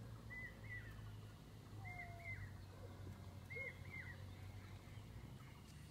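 A bird repeating a two-note call, each pair of short, high, arched notes coming about every second and a half, over a faint low steady hum.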